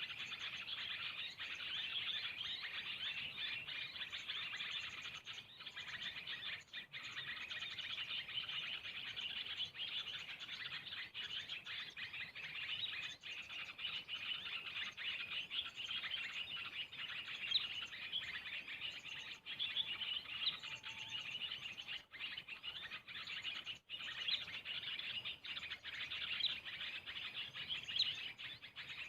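Small birds chirping in a dense, continuous stream of quick, high notes without a break.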